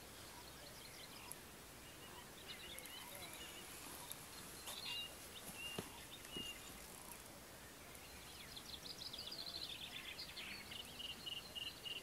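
Faint outdoor ambience with songbirds calling: scattered chirps, then near the end a quick trill that slides down into a string of evenly repeated notes.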